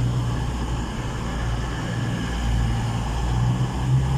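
Diesel multiple unit underfloor engines running, a steady low engine drone that swells and eases slightly.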